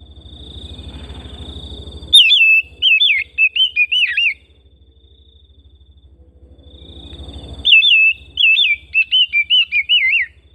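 Oriental magpie-robin singing: two loud phrases of quick, warbling whistled notes, each about two seconds long and some five seconds apart. A steady thin high tone runs underneath, and a low hum swells before each phrase.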